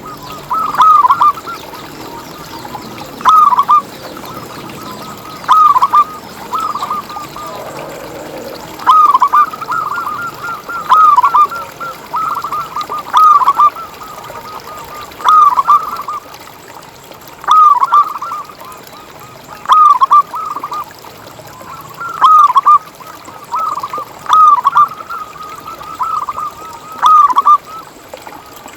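Zebra dove (perkutut) cooing: short phrases of quick, rolling notes repeated about every two seconds, at times overlapping in faster runs.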